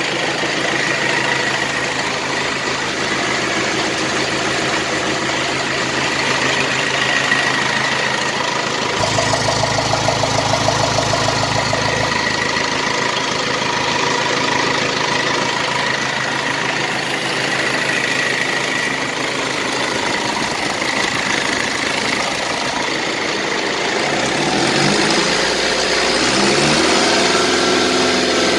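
Cummins diesel engine idling steadily, then speeding up near the end. The engine smokes at idle and under throttle; the owner found no obvious injector problem.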